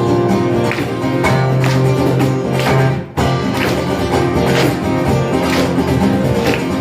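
A live band playing an instrumental passage led by guitar, with a strong beat about once a second. The music breaks off for an instant about three seconds in, then carries on.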